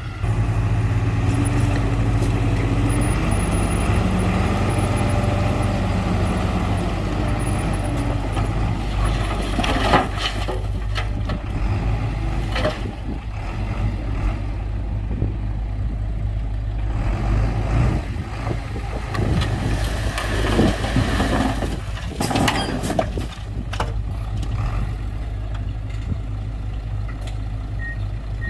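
Diesel engine of heavy earthmoving equipment running steadily, its pitch shifting a little in the first few seconds, with occasional metallic knocks and clanks, the sharpest about ten seconds in.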